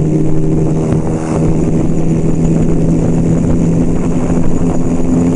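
1975 Kawasaki KZ400 parallel-twin engine running at a steady cruising pitch under way, with wind noise over the microphone.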